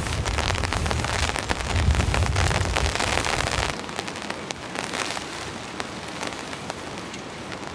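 Heavy rain falling, a dense patter of drops. A low rumble of wind on the microphone runs underneath for the first few seconds and cuts off suddenly a little under four seconds in.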